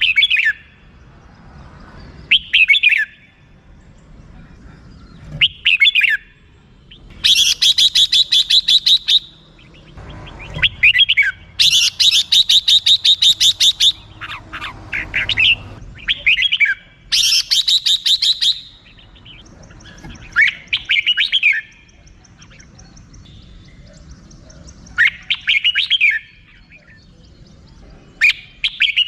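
Red-whiskered bulbul calling: short warbled phrases every few seconds, broken three times by long, rapid runs of repeated harsh 'rik' notes at about seven a second, each lasting about two seconds.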